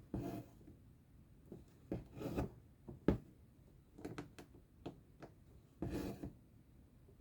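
Stranded embroidery floss being pulled through cross-stitch fabric: short rasping pulls every second or two, with a few light sharp clicks in between.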